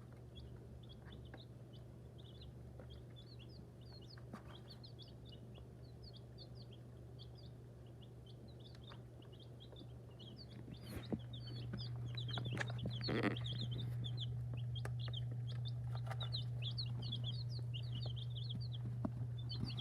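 Chickens, seemingly young chicks, giving a constant stream of short high peeps while pecking in wood shavings, with scattered clicks. A steady low hum runs underneath and gets louder about halfway through.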